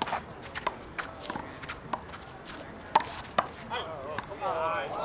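Rubber handball being slapped by hands and hitting the wall in a rally: a series of sharp slaps at uneven spacing, the loudest about three seconds in. Near the end, a run of high, arching squeaks.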